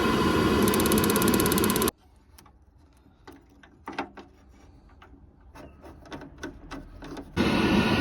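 Gas boiler running, its fan going with a fast run of ignition clicks from the spark electrode, cutting off suddenly after about two seconds. Small handling clicks follow, then the boiler sound starts again near the end.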